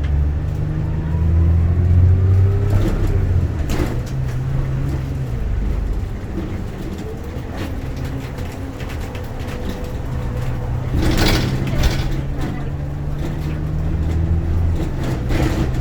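A bus engine and drivetrain running, heard from inside the cabin, with a whine that rises in pitch over the first few seconds as it pulls. A few knocks and rattles come through, the loudest about eleven seconds in.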